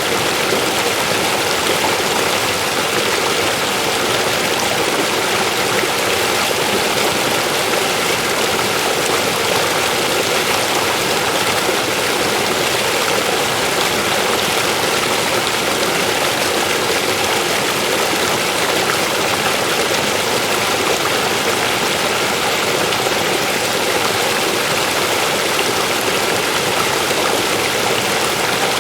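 River water flowing and splashing over rocks in a steady, unbroken rush.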